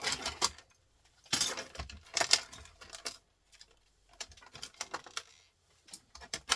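Small metal parts clinking and rattling as a printer is stripped by hand, stainless steel pieces and springs knocking together and being dropped, in several short irregular bursts with brief pauses between them.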